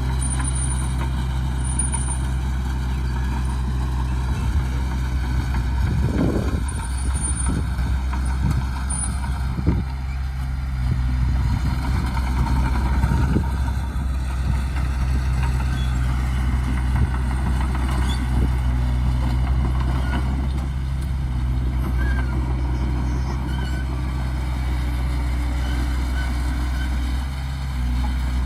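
Heavy diesel earthmoving machinery running steadily at a constant engine speed, with a few louder rumbling, scraping stretches about six, ten and thirteen seconds in.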